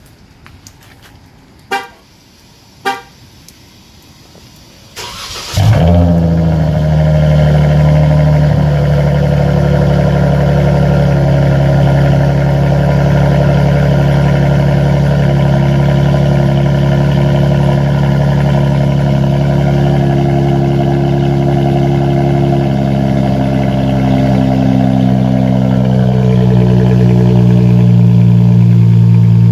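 Two short car horn chirps, then about five seconds in the 2018 Dodge Charger's 3.6-litre V6 starts with a quick flare and settles into a steady, deep idle through its modified exhaust: mid mufflers removed, a single Flowmaster Super 10 and straight pipe behind it.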